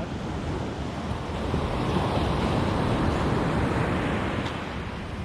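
Ocean surf breaking and washing up the beach, swelling about two seconds in and easing off, with wind rumbling on the microphone.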